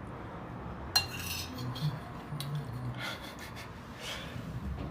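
Cutlery clinking against a plate of food: a sharp clink about a second in, then scraping as food is scooped up, with more scrapes later.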